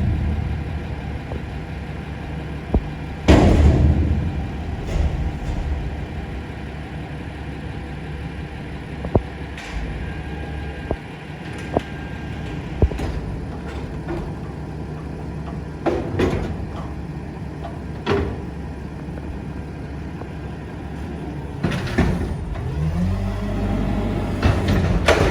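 Peterbilt garbage truck with a Heil body, its diesel engine running steadily while metal bangs and clanks sound from the truck and bins, the loudest about three seconds in and several more spaced through. Near the end the engine revs up and holds at a higher speed.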